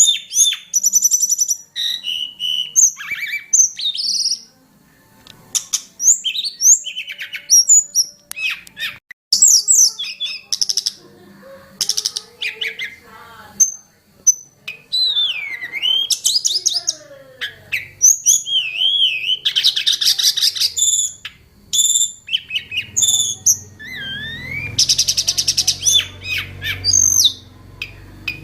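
A tledekan gunung songbird singing a long, varied song: rapid trills, sweeping whistles and chattering notes, one phrase after another with short pauses between them.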